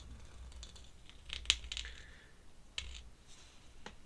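Faint scratching strokes and small clicks of an ink pen working on sketchbook paper, a cluster of quick strokes about a second in and a few single ones later.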